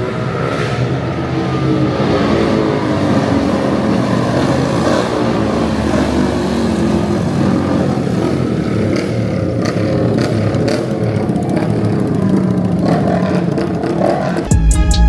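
A car engine revving, its pitch rising and falling several times, then running steadily. Music with a drum beat cuts in suddenly near the end.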